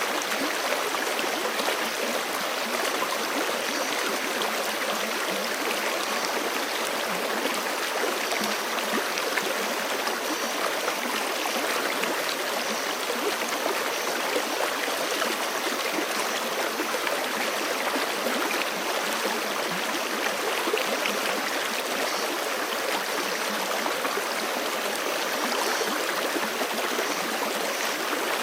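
A forest stream flowing steadily over rocks, a continuous rushing and gurgling of water.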